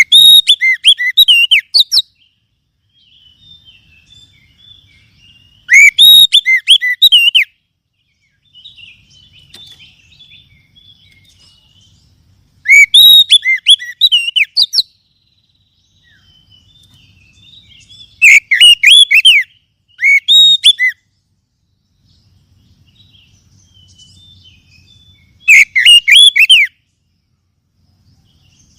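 Oriental magpie-robin (kacer) singing in loud, strident phrases of one to two seconds, about every five or six seconds, with faint twittering between them.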